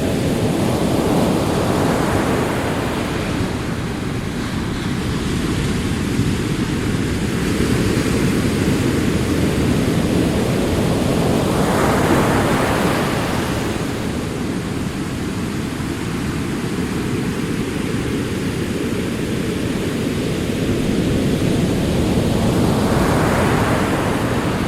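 Ocean surf: waves rolling in and breaking, one swelling wash about every ten seconds over a continuous hiss of water.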